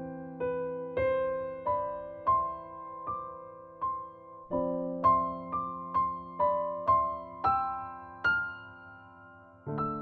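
Background music: a slow solo piano melody of single notes, about two a second, over held chords that are struck again about halfway through.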